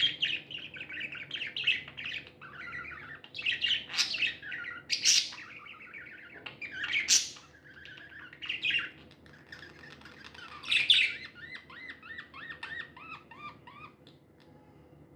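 Pet budgerigars chirping and warbling in a busy chatter, broken by several loud, sharp calls. Later comes a quick run of repeated rising-and-falling notes, and the chatter dies down near the end.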